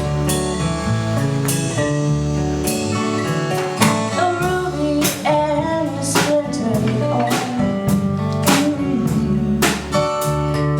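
A live band playing the song's opening: guitars over a drum kit keeping a steady beat, with a wavering lead melody line in the middle of the passage.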